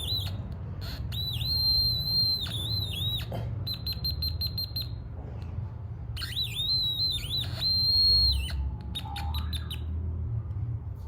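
Blix electronic quacking circuit toy sounding a high electronic tone in two long stretches with brief dips in pitch, flickering on and off in between. It sounds whenever skin contact between the two people holding and touching it closes the circuit.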